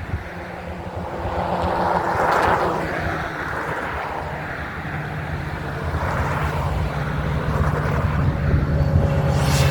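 Train running past: a steady low engine rumble that builds from about halfway through, with wind noise on the microphone.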